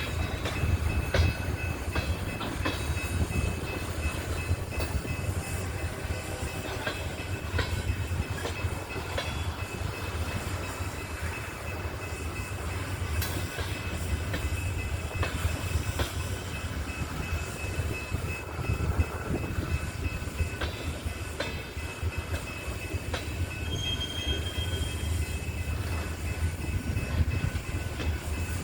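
Coal train cars rolling by: a steady low rumble with scattered wheel clicks, a thin steady high whine from the wheels, and a brief higher wheel squeal near the end.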